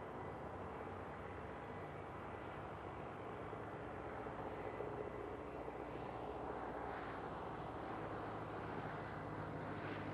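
Aircraft engine noise, a steady rumble that slowly grows louder as a plane draws nearer.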